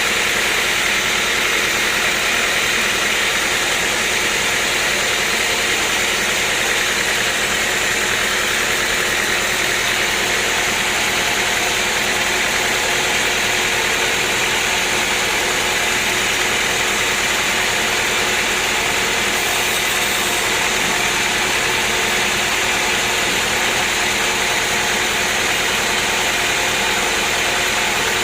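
Sawmill machinery running steadily, a constant loud mechanical drone with a faint hum, with no cutting strokes heard.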